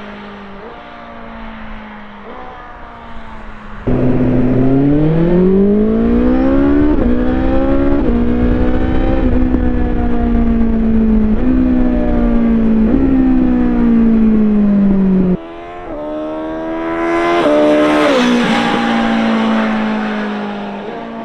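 BMW S1000XR inline-four motorcycle engine with an Akrapovic exhaust, revving up and down through a series of gear changes, its pitch stepping at each shift. The sound jumps suddenly louder about four seconds in and drops again after about fifteen seconds. Near the end the bike passes by, swelling to a peak and fading away.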